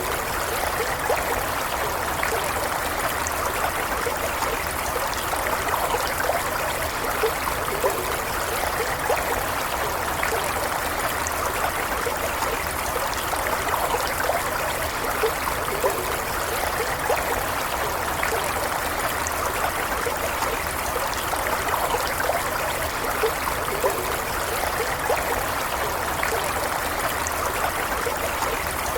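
A small stream running steadily over stones, a continuous babbling with many small splashes and trickles.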